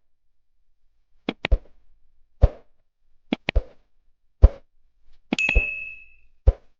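A series of about six knocks roughly a second apart, each a deep thud with a sharp click. Near the end, one knock rings out with a clear metallic ding.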